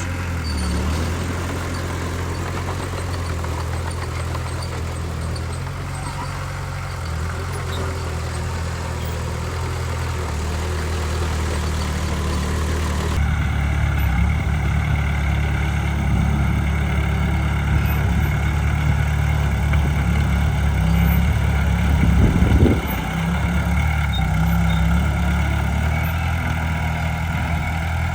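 Heavy diesel engine of earthmoving machinery running at a steady low hum. The sound changes abruptly about halfway through, and a brief louder surge comes about three quarters of the way in.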